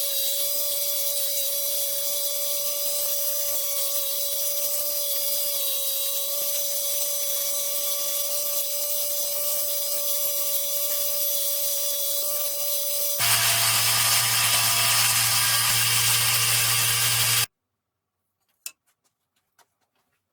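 Jigsaw running with a steady whine for about thirteen seconds, then a louder, lower-pitched stretch for about four seconds that cuts off abruptly, followed by a few faint clicks.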